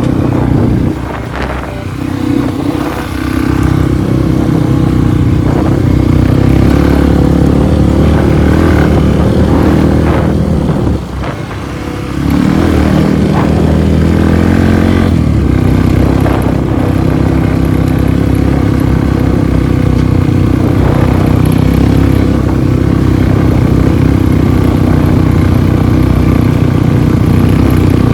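Motorcycle engine running hard under load, its revs rising and falling, with a brief easing off about eleven seconds in before it pulls again.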